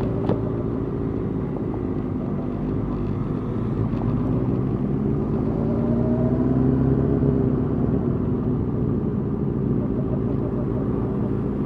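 Motorcycle engines running at low parade speed, a steady hum that gets a little louder and higher around the middle, with one short click just after the start.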